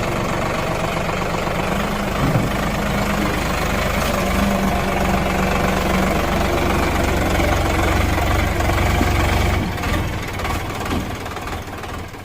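Sonalika DI 47 RX tractor's diesel engine running steadily, then fading about ten seconds in.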